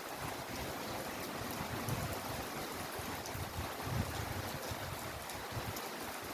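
Steady heavy rain falling, an even hiss with a few sharp drop ticks and low gusty rumbles now and then.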